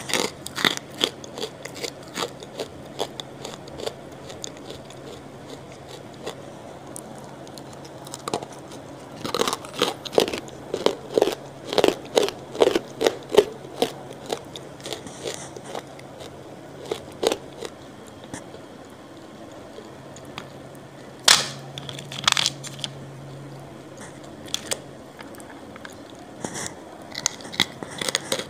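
Close-miked crunching and chewing of hard, crunchy rock-shaped food. A steady run of chews, about two a second, comes near the middle, and two louder sharp crunches about three quarters of the way in.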